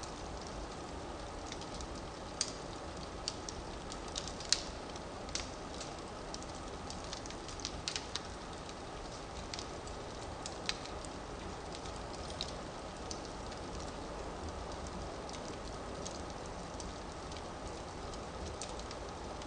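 Firewood burning in a fireplace: a steady soft hiss with sharp crackles and pops, thickest in the first half and sparser toward the end.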